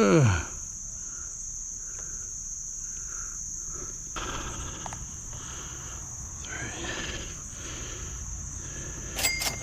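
Crickets chirring steadily in one unbroken high-pitched drone. A short voice sound falling steeply in pitch comes right at the start and is the loudest thing heard.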